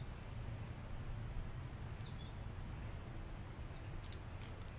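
Quiet outdoor ambience: a steady low rumble with a small bird chirping briefly twice, about a second and a half apart.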